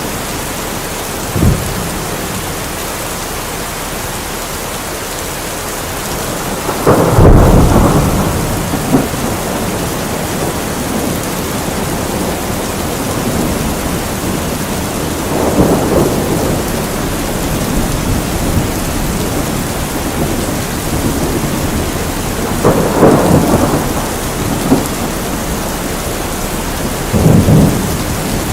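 Steady heavy rain hissing, with low rolls of thunder rumbling in several times, the loudest about seven seconds in and others near the middle and toward the end.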